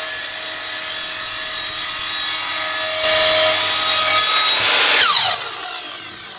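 Sliding mitre saw motor running with a high whine, louder for about two seconds from three seconds in. About five seconds in it is switched off and winds down with a falling whine.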